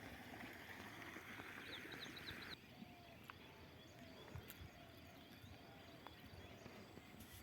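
Near silence: faint background hiss that drops away suddenly about two and a half seconds in, with a few soft ticks and brief faint high chirps.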